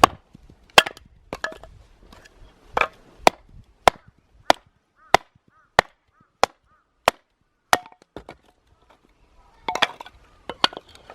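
Firewood being split for a campfire: a steady series of sharp wooden chopping strikes, one about every two-thirds of a second, with a few quicker strikes near the end.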